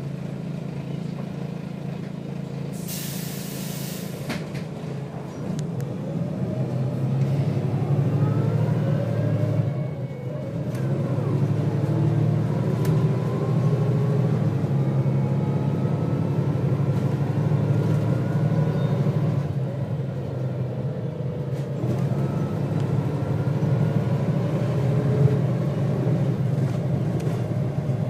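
Volvo B6BLE bus's diesel engine and ZF automatic gearbox heard from inside. It idles at first, with a short hiss of air about three seconds in as the air brakes release. It then pulls away, the engine rising in pitch and dropping back at each gear change, about ten and twenty seconds in.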